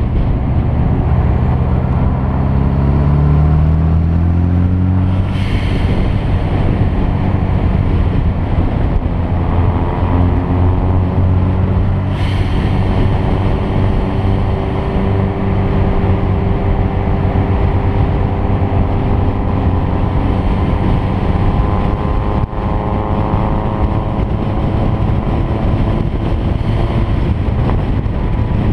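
Car engine accelerating hard, its pitch rising over the first few seconds, then running under sustained load with the pitch climbing slowly, with two short sharp noises about 5 and 12 seconds in.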